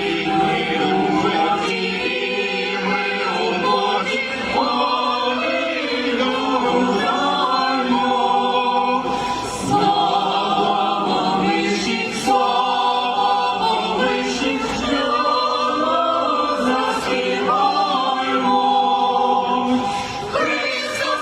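A choir singing a Ukrainian carol in sustained chords, apparently without instruments.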